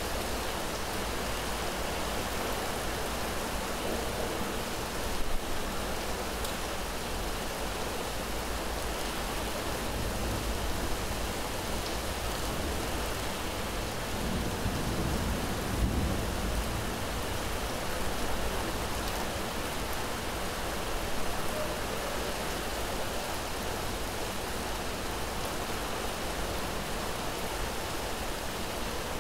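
Steady rain falling, an even hiss with a few brief louder spells.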